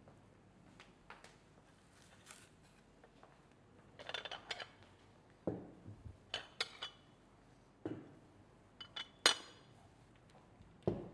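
Cutlery, plates and glassware being set down on a table: scattered light clinks and knocks. They start about four seconds in, and the sharpest clink comes about nine seconds in.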